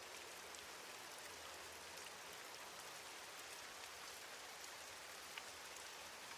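Steady rainfall, an even hiss with scattered individual drops ticking.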